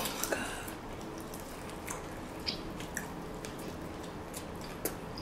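Faint mouth sounds of people chewing food, with scattered small clicks through the chewing.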